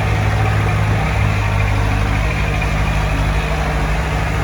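Heavy diesel engine of earthmoving machinery running steadily with a low, even throb.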